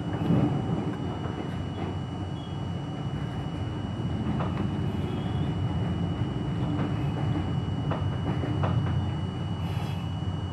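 R42 New York City subway train: a steady low rumble with a constant high whine and scattered clicks and knocks.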